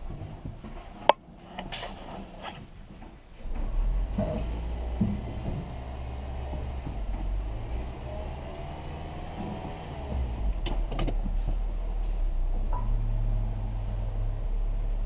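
2011 Nissan Altima's 2.5-litre four-cylinder engine running at idle, with a few sharp clicks about a second in; the running hum drops away briefly and comes back steady from about three and a half seconds.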